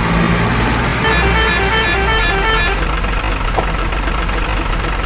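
Heavy truck engine running steadily, with a quick run of horn-like notes stepping in pitch between about one and three seconds in.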